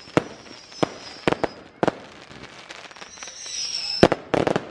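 Fireworks going off: sharp bangs at irregular intervals, with a high whistle about three seconds in and the loudest bangs just after it, near the end.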